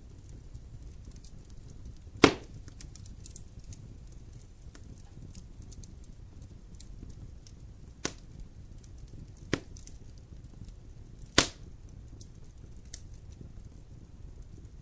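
Wood fire in a fireplace burning with a low rumble and faint crackling, broken by sharp pops: two loud ones, about two seconds in and near the end, and two smaller ones in between.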